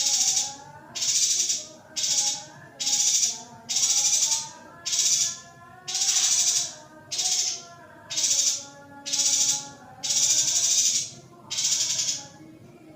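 Female yuhina giving a harsh, hissing call over and over, about once a second, the kind of call used to excite a male yuhina; fainter wavering twitter sits behind it.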